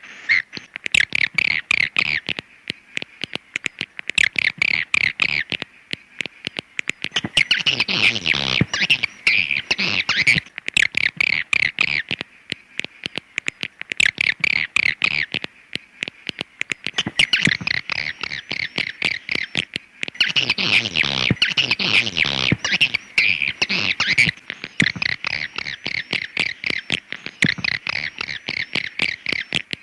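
Recorded swiftlet calls played as a lure to draw swiftlets into a nesting house: fast, chattering twitters in phrases of a few seconds with short gaps between them, repeating.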